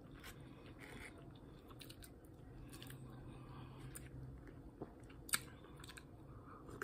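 Faint chewing and small mouth clicks as someone eats a mouthful of food, with one sharper click about five seconds in.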